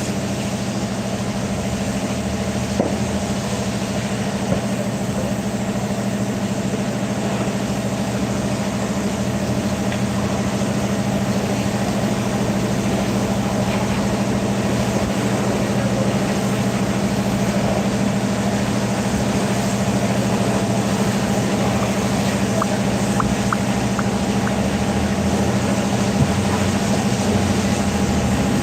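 Steady low machine hum with constant low tones, unchanging throughout, like an engine or motor running at idle.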